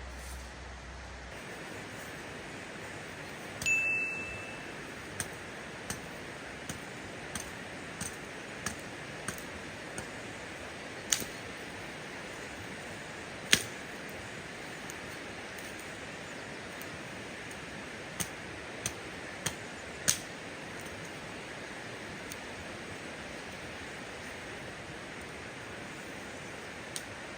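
A single ringing metallic clink, then a run of short sharp taps about one every 0.7 seconds, with a few louder knocks scattered later, over a steady hiss.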